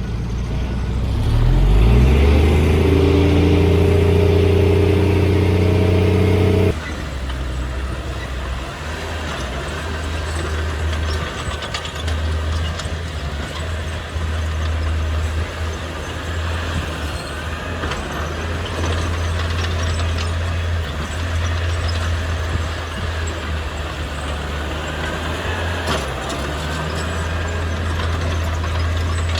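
Heavy diesel engine of earthmoving machinery revving up about a second in and holding at high revs, then dropping off suddenly to a lower steady running; the revs rise again near the end.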